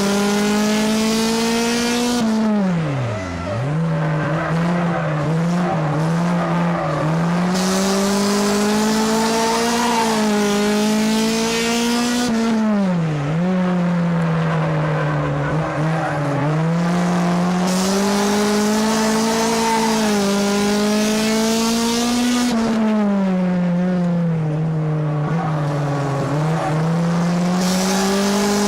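Race car engine heard from inside the car at racing speed. It holds a steady pitch, then drops sharply as the throttle is lifted for a turn, about every ten seconds, and climbs back as the car powers out.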